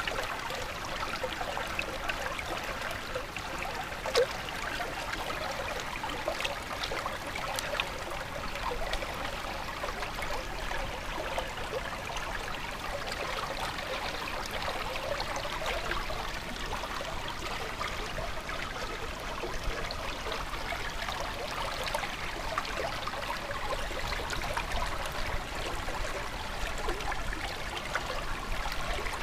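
Water of a small stream trickling and babbling steadily.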